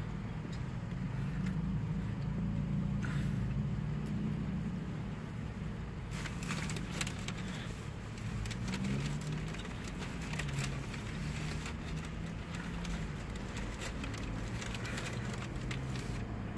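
Low, steady hum of a car idling, heard from inside the cabin. From about six seconds in, dense crackling and clicking of eating sounds ride over it.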